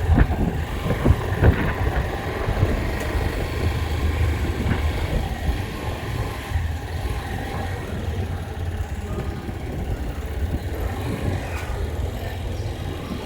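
Vehicle engine and road noise while driving, a steady low rumble, with a few knocks in the first couple of seconds.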